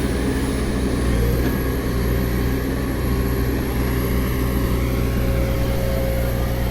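Heavy diesel engine running steadily, a constant low drone.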